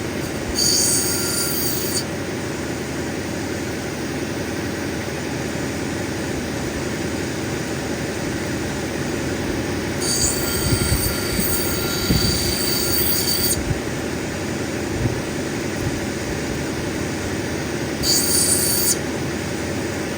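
Cabbing machine's wheel running steadily while an opal is ground on it, with three spells of high-pitched squealing hiss as the stone is pressed against the wheel: near the start, for a few seconds in the middle, and briefly near the end.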